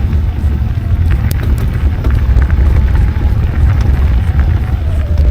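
Steady wind rush on the microphone with scattered rattles and ticks from a mountain bike rolling along a dirt trail.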